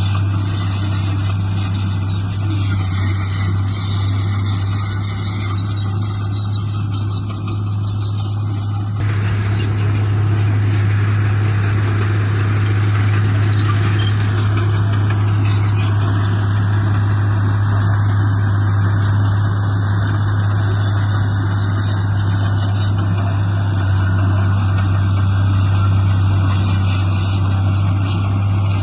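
Bulldozer's diesel engine running steadily under load, with a deep constant hum and the clatter of the working machine; it gets louder about nine seconds in.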